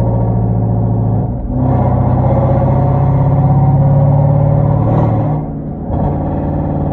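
Straight-piped Genesis 5.0 V8 exhaust with Flowmaster mufflers and no catalytic converters, droning loudly while driving. The note dips briefly twice, about a second in and again near the end, and settles at a slightly different pitch each time.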